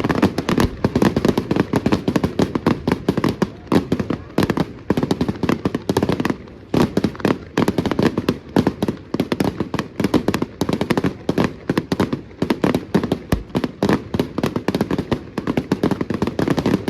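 A long string of firecrackers going off: a rapid, irregular crackle of sharp bangs, several a second.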